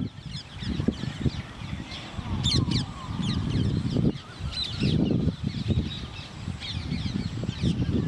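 Several birds calling, with many short high chirps throughout and a few lower gliding calls about two to three seconds in, over an uneven low rumble.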